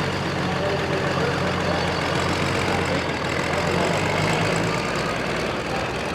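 Pro Farm pulling tractor's diesel engine running steadily at low revs after its pass, its low rumble dropping off about four seconds in.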